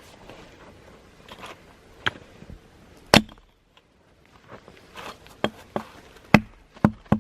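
Wood being chopped with an axe: a series of sharp, irregular strikes, the loudest about three seconds in and a quick run of them near the end.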